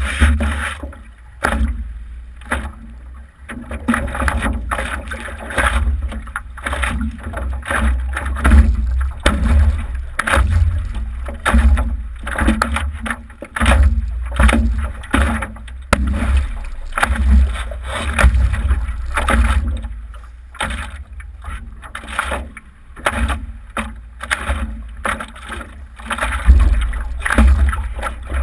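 Wind buffeting the microphone in irregular gusts, a heavy low rumble that swells and fades.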